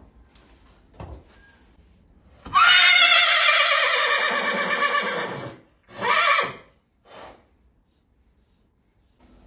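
A horse neighing: one long, loud whinny starting about two and a half seconds in, falling in pitch over some three seconds, then a short second call right after. It is the calling of an excited horse in springtime.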